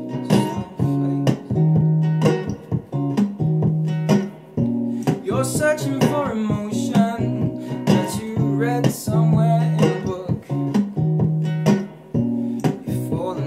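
Acoustic guitar played in a steady, rhythmic picked-and-strummed pattern with sharp percussive strokes, layered with a loop pedal. Wordless singing rises over it in the middle.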